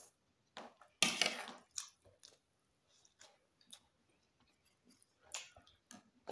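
Close-miked eating sounds: chewing and wet mouth noises from rice and chicken curry eaten by hand, coming as short separate bursts, the loudest about a second in.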